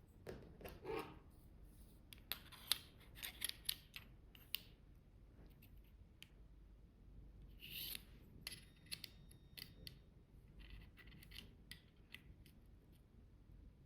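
Faint scattered clicks and short scrapes of a measuring tool against a small aluminium part during dimension checks, most of them between about two and five seconds in, with a brief scrape near eight seconds.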